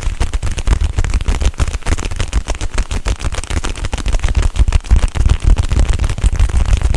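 Dense, rapid tapping and crackling right against the microphone, with a constant run of low thumps under it, without a break.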